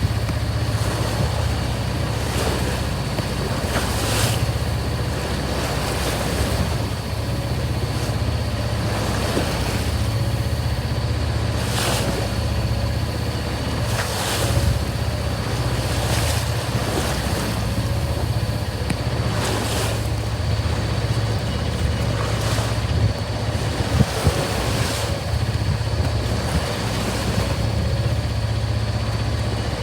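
Sailing yacht underway in rough seas: waves slap and splash against the hull every couple of seconds, over rushing wind and a steady low hum.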